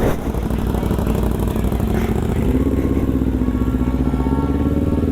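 Sportbike engine running under way, its pitch rising steadily from about halfway through as the bike accelerates.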